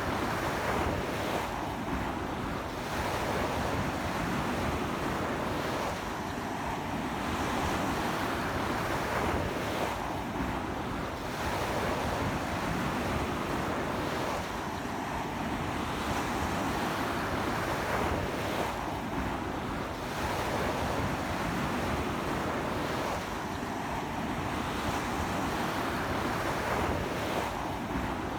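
Strong sea surf breaking on a beach in a stiff sea wind, in a continuous wash that swells about every four to five seconds as each wave comes in.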